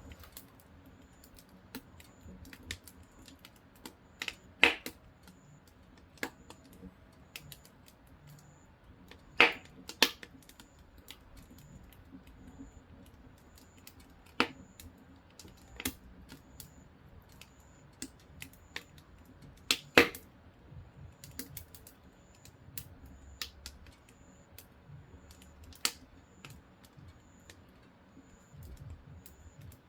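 Burning firewood crackling, with irregular sharp pops and snaps of varied size. The loudest pops come about five, nine and twenty seconds in.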